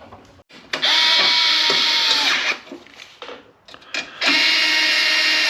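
Cordless power tool running in two bursts of about two seconds each, its motor pitch sagging as each run stops, driving fasteners as the cleaned carburetor is bolted back onto the snowblower.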